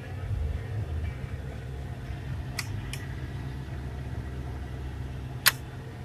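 A steady low engine rumble, like an engine idling, with two faint sharp clicks about two and a half and three seconds in and a louder click about five and a half seconds in.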